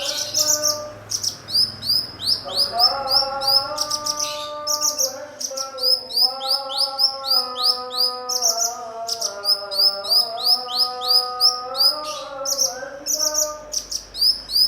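Cucak cungkok songbird chirping: a fast series of high, down-curving chirps, about five a second, in runs with short breaks. Under it runs a lower, held, wavering tune.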